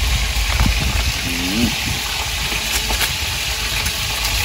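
Steady sizzling hiss of food frying in hot oil, over a low rumble. A short snatch of a voice comes in about a second and a half in.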